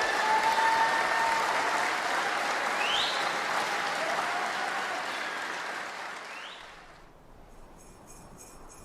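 Congregation applauding with a few cheers after a song; the applause fades out about seven seconds in. Faint jingle bells begin shaking in a steady rhythm near the end.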